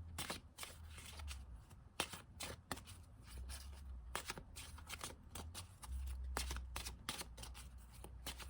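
Tarot cards being shuffled and handled: faint, irregular flicks and slides of card against card.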